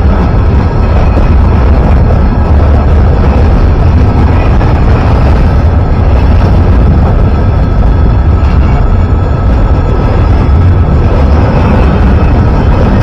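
Train passing close by: a loud, steady, deep rumble with a faint steady tone above it.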